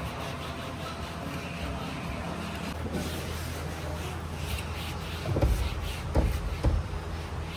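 Steady low mechanical hum, with three dull thumps in the second half.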